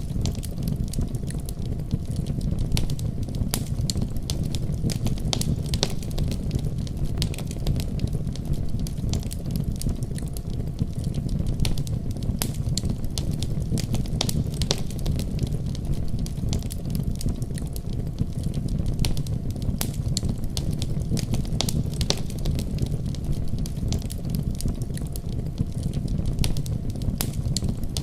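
Wood fire burning in a fireplace: a steady low rumble of flames with frequent sharp crackles and pops throughout.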